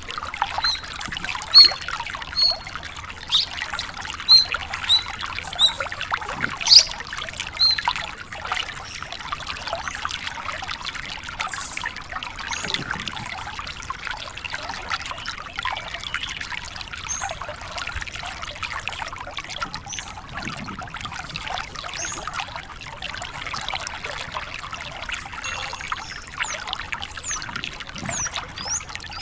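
Javan bush lark (branjangan) singing a dense, rapid, unbroken run of twittering notes, with clear short chirps in the first several seconds and a few quick whistled slides near the end.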